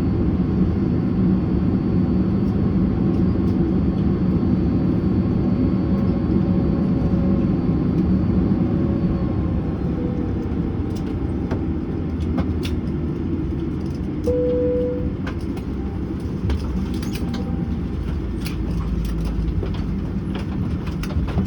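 Boeing 767-300ER cabin at the gate: steady rumble with a thin engine whine that falls away about nine seconds in as the engines are shut down. About fourteen seconds in a single cabin chime sounds for the seatbelt sign going off, followed by scattered clicks of seatbelts being unbuckled.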